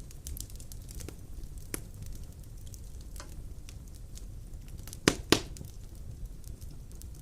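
Luxfire Firebox 670 bioethanol fireplace burning, a steady low rumble of flame with scattered sizzling clicks and two sharper clicks about five seconds in.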